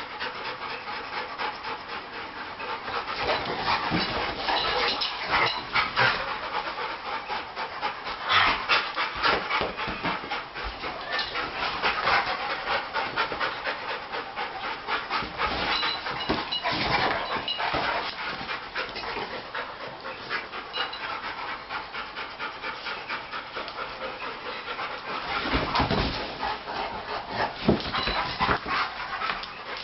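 Mixed-breed dogs panting heavily in quick, rhythmic breaths, out of breath after playing.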